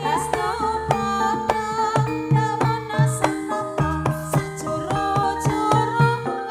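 Javanese barongan music: a gamelan-style ensemble with quick, rhythmic hand-drum strokes and struck metal tones ringing out over deep held bass notes.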